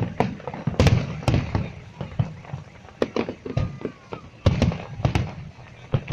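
Fireworks salute: an irregular run of sharp shell bursts, about two bangs a second, each trailed by a low echo.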